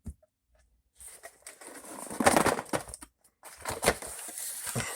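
Rummaging in a cardboard box to take out a model-railroad DCC controller: irregular rustling and knocking, starting about a second in, loudest a little past the middle.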